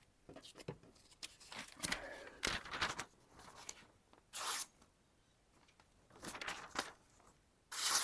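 A freshly sharpened kitchen knife slicing through thin telephone-book paper: about five separate slicing strokes with short pauses between them, each a papery hiss.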